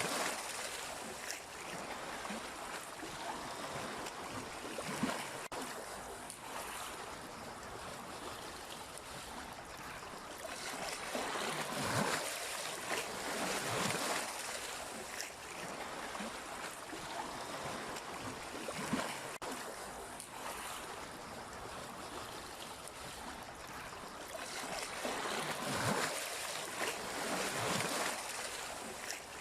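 Sea waves washing in, a steady wash of water that swells and eases every few seconds, with stronger surges now and then.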